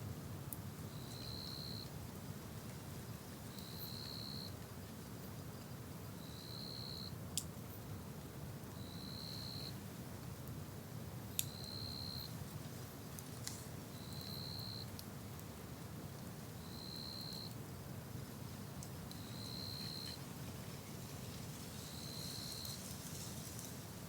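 A steady low rush with a few sharp pops, like a wood campfire crackling. Over it, a short high chirp repeats evenly about every two and a half seconds.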